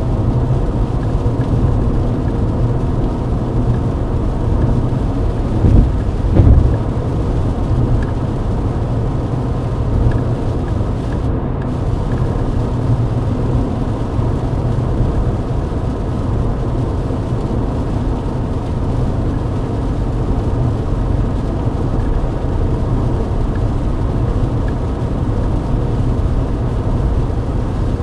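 Steady low rumble of a Mercedes-Benz W124 cruising at highway speed on a wet road, heard from inside the cabin, engine and tyre noise together. Two low thumps close together come about six seconds in.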